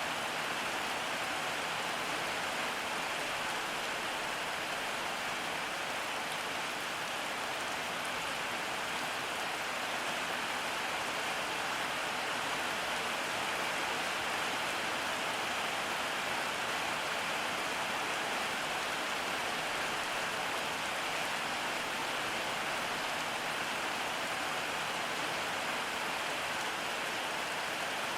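Steady rainfall, a constant even hiss of rain on surfaces with no change in strength.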